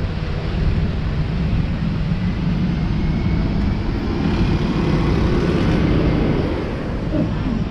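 Street noise with passing traffic, one vehicle swelling past around the middle.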